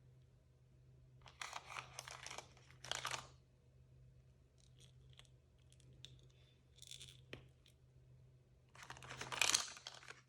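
Packaging being torn open and crinkled by hand: a stretch of crinkling about a second in, a short tear just before three seconds, a few light clicks, then a louder crinkling tear near the end.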